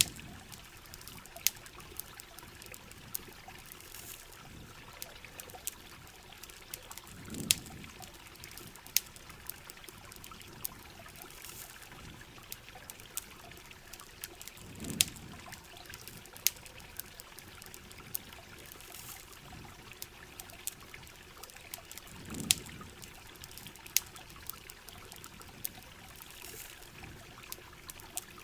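Layered ambience of steady rain and trickling, pouring water, with frequent sharp campfire crackles and pops scattered throughout. A soft low swell comes back about every seven and a half seconds.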